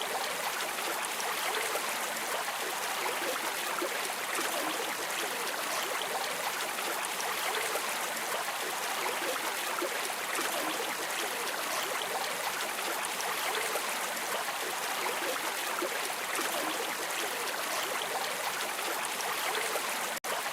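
Flowing river water: a steady, even rushing with no breaks, cutting out briefly near the end.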